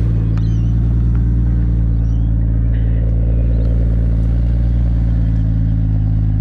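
A car engine idling steadily, just after a cold start on a frosty morning.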